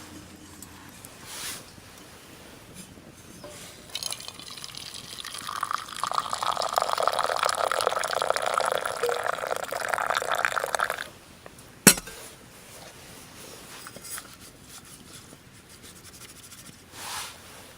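Liquid being poured into a container for about six seconds, then stopping abruptly, followed by a single sharp click.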